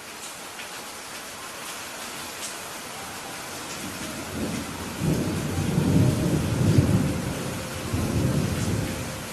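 Steady rain with a long roll of thunder. The low rumble builds from about four seconds in, is loudest around two-thirds of the way through, and dies away near the end.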